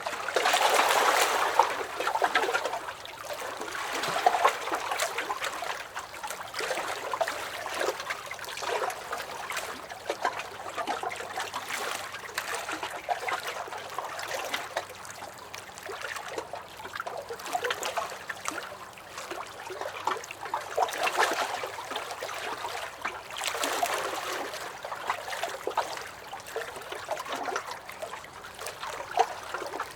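Small lake waves lapping and splashing against a dock, in irregular swells with louder surges near the start and about two-thirds of the way through.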